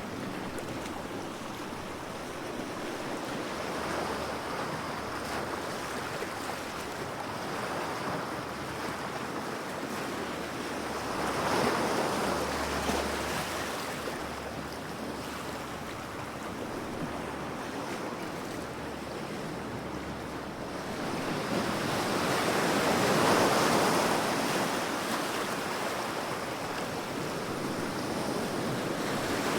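Ocean surf: waves washing in and breaking, the hiss swelling and falling back, with the biggest waves about ten seconds apart.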